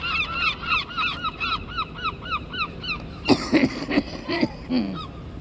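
Gulls calling during feeding: a fast run of short repeated calls, about four a second, then a few louder, harsher calls that fall in pitch about three seconds in.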